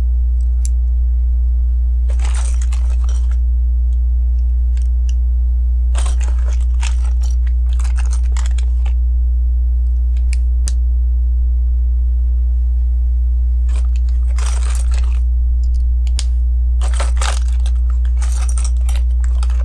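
Plastic LEGO pieces clicking and rattling as they are picked up and pressed onto the build, in several short bursts, over a loud steady low hum.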